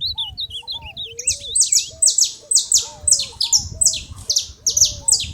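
Saffron finches calling at a feeding spot: a fast run of sharp, down-slurred high notes about twice a second, starting about a second in, over softer, continuous chirping.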